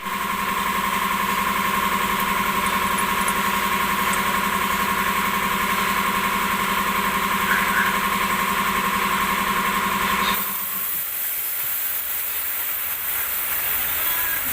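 A motor-driven machine runs steadily with a high hum, then cuts off suddenly about ten seconds in, leaving a steady hiss.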